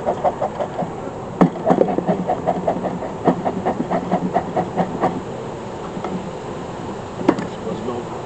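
Beekeeper's smoker being pumped fast, its bellows puffing in an even rhythm of about five puffs a second until it stops about five seconds in, with a few sharp knocks.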